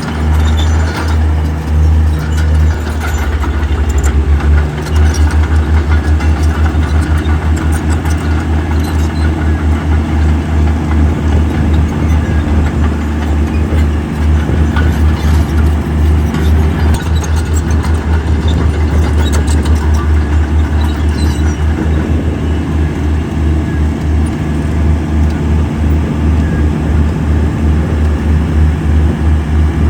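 Heavy diesel engine of earthmoving machinery running under load, a loud, low, pulsing rumble.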